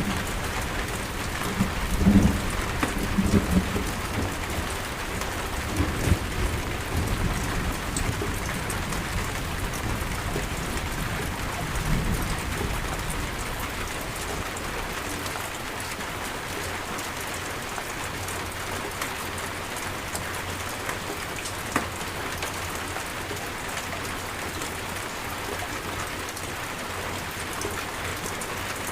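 Steady rainstorm: rain pouring in a constant hiss, with low rolls of thunder in the first half that fade out about halfway through, leaving only the rain.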